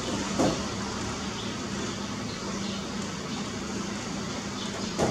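Steady hiss of rain mixed with distant traffic and a constant low hum, broken by two sharp knocks, one about half a second in and one at the end.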